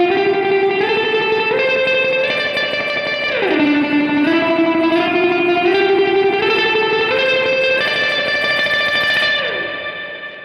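Clean electric guitar played through the Donner Versa Yellow Fall 2's hall reverb with the decay turned up high, so the notes ring on and overlap in a long wash. The playing climbs in steps, with a glide down in pitch about three and a half seconds in, and the reverb tail fades away near the end.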